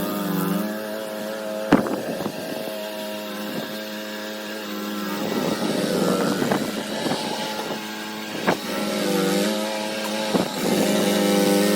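An engine running steadily, its pitch dipping briefly a few times as if taking load, with scattered sharp knocks, the loudest about a second and a half in.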